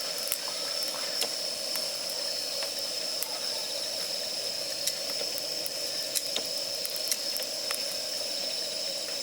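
Campfire of damp firewood burning, with scattered sharp crackles and pops over a steady hiss.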